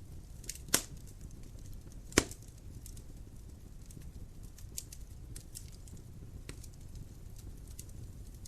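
Wood fire burning in a fireplace: a steady low rumble with scattered small crackles, and two loud sharp pops of the burning wood about one and two seconds in.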